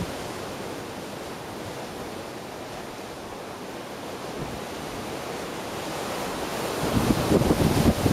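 Ocean surf washing steadily against the coast, with wind buffeting the microphone. The wind gusts grow stronger near the end.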